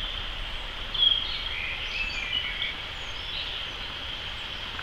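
Small birds chirping outdoors, a few short calls about a second in and again soon after, over a steady high-pitched background hiss.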